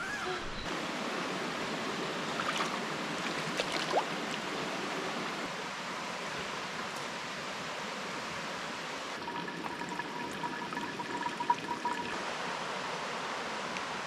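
Steady rush of flowing water, like a stream running, with a few faint clicks.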